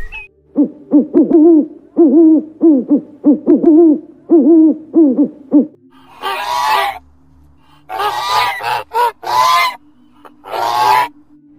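Canada geese honking: first a quick run of low honks, about three a second, then from about six seconds in a few louder, harsher honking calls.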